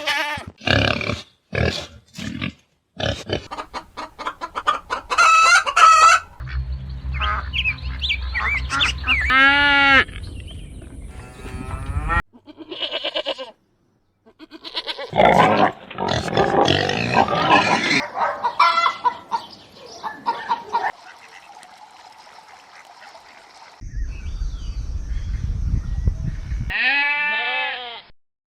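A series of short farm-animal clips with abrupt cuts between them: livestock and poultry calling, mostly bird-like honks and clucks with some bleat-like calls, several animals at once in places.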